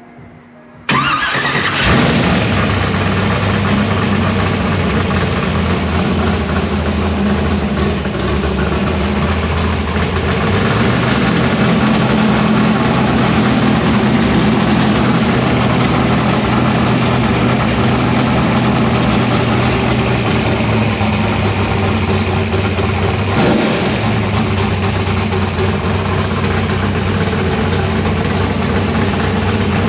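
Rebuilt 305 cubic-inch small-block Chevy V8 with open headers catching about a second in and running steadily at idle. Its pitch steps up slightly about a third of the way through, with one short throttle blip about two-thirds through.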